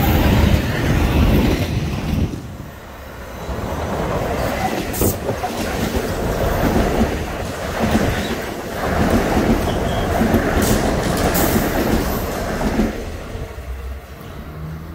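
Metro-North M8 electric multiple-unit train cars running past on the rails: a steady rumble with the clickety-clack of wheels over the track. The noise dips briefly about two seconds in and dies away near the end as the last car clears.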